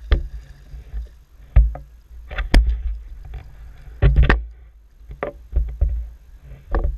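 Irregular knocks and thumps on a fishing kayak, some sharp, over a steady low rumble, typical of paddle and gear knocking against the hull.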